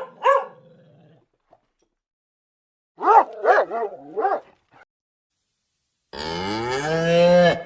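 A dog barking: two short barks at the start, then four more about three seconds in. Near the end a cow begins a long, low moo.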